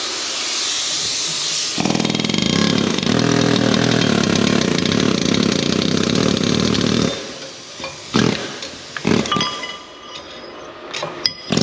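Metal cutting on the excavator's worn pin bushings: a hiss at first, then a loud steady buzzing for about five seconds that stops, followed by scattered short scraping noises and a sharp click near the end.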